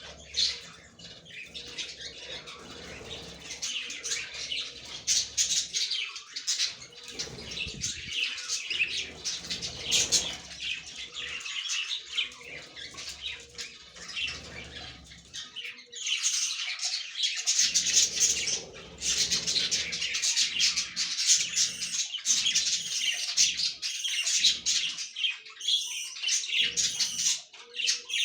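Budgerigars chirping and chattering continuously, with scattered clicks; the chirping grows louder and denser about halfway through.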